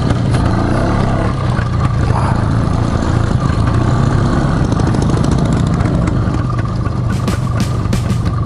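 Motorcycle engine running steadily with a low, even rumble. Sharp clicks come in near the end.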